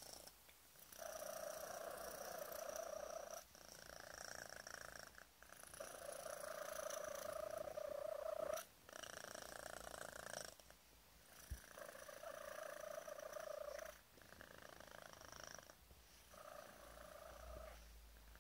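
Five-month-old kitten purring loudly in long stretches of one to three seconds, each broken by a short pause for breath, with a faint high whistle riding along with the purr.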